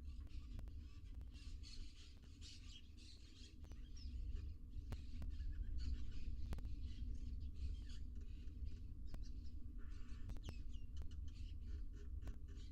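Short bird chirps and repeated hissy, rasping bursts, with scattered sharp clicks, over a steady low rumble from the nest-box microphone.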